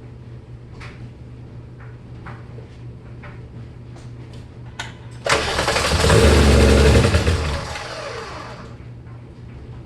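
A 1996 Volkswagen GTI VR6 engine being cranked by the starter for about three seconds, starting suddenly and fading out as the key is released. The car has a crank-no-start fault: it cranks but will not run except on starter fluid.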